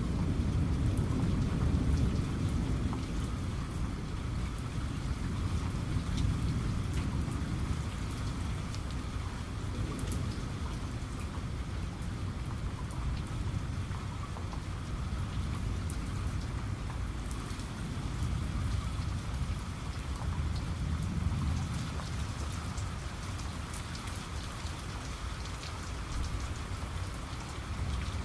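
Steady rain, with individual raindrops pattering sharply against a surface, over a low rolling rumble of thunder that is heaviest near the start.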